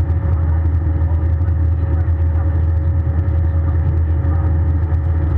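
Airbus A320 passenger-cabin noise: a steady, loud low rumble of the jet engines and airflow with a constant whine above it.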